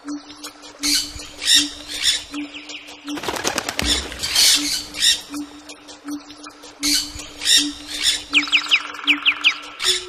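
Several wild birds calling together: a low hoot repeated about three times every two seconds, over it short harsh rasping bursts of calls, and near the end a quick run of about six whistled notes.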